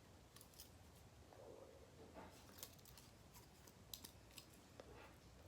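Near silence with about half a dozen faint, sharp clicks scattered through it: small parts of a butterfly knife trainer being handled and adjusted.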